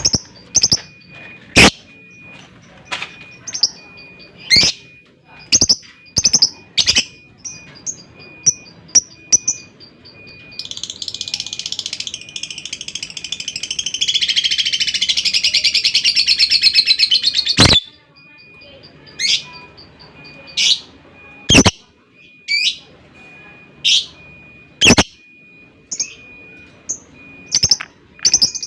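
Lovebird calling: short sharp chirps about once a second, with a long rapid chattering trill (ngekek) from about ten seconds in until about eighteen seconds. A few loud sharp clicks fall among the chirps.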